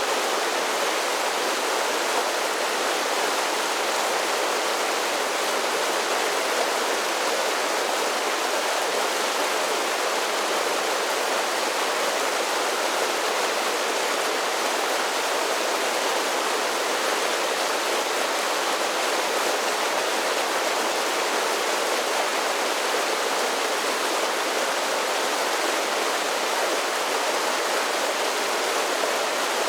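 Mountain creek cascading down a series of small waterfalls: a steady, even rush of falling and splashing water.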